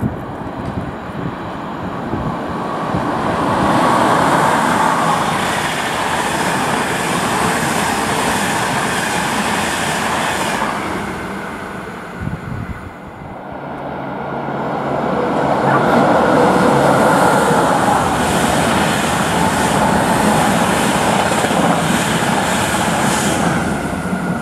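EuroCity passenger train passing through a station at speed: wheel-on-rail rumble and clatter that swells after a few seconds. Around halfway it dips briefly, then swells again with a steady low hum underneath, easing off near the end.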